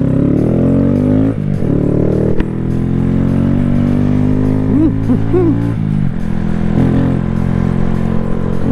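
Small motorcycle engine running under way, its revs rising and falling briefly in the first second or so, then holding steady. A few short vocal noises from the rider come near the middle.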